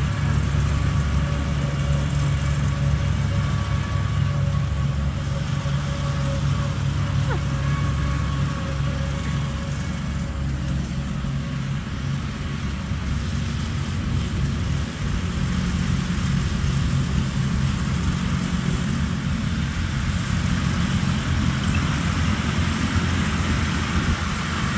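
Tractor engines running at low speed, a steady low engine note that shifts slightly partway through.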